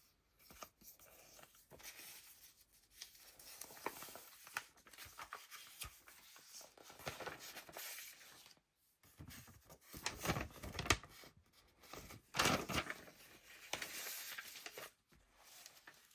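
Pages of a handmade junk journal being turned and handled: irregular rustles, swishes and crinkles of layered paper, with a few louder page turns in the second half.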